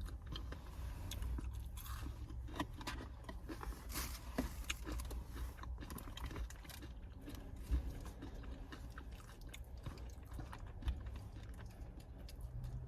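A person chewing food close to the microphone, mouth sounds with many small crisp crunching clicks.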